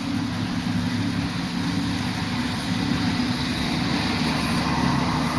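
Street traffic with a motor vehicle engine running steadily, a continuous low hum over road noise.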